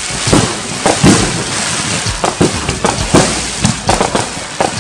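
Fireworks barrage: many bangs in quick, irregular succession over a steady hiss, the loudest about a second in.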